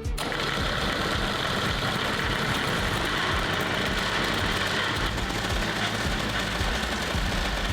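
Vikhr-30 two-stroke outboard boat motor, mounted in a car, running steadily with no revving.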